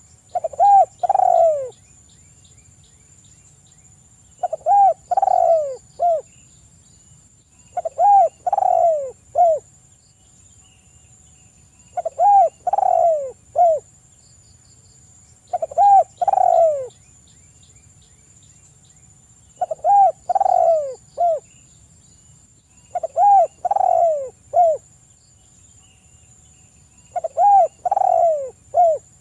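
Spotted dove (tekukur) cooing: a phrase of three or four falling coo notes, repeated evenly about every four seconds. Each phrase is set apart by a short quiet gap.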